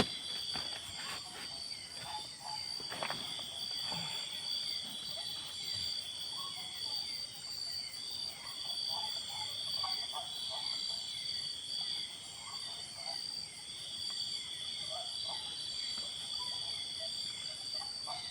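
Forest insects, such as crickets and cicadas, keep up a steady high-pitched buzz, with scattered short chirping calls over it. A few knocks come in the first few seconds.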